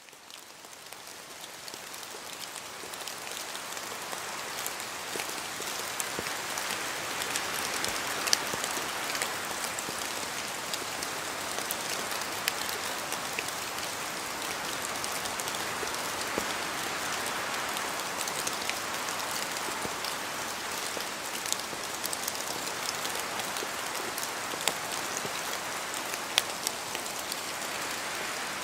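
Steady rain falling in a forest, with drops pattering and individual drops ticking sharply. It fades in over the first few seconds, then holds steady.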